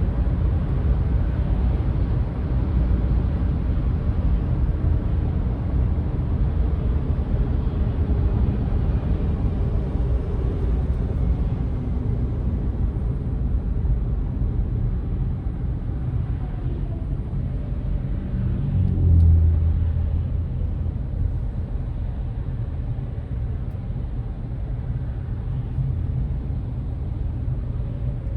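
Steady low rumble of a vehicle driving, engine and road noise. About two-thirds of the way through, a brief, louder low boom swells up for a second or so and then fades back into the rumble.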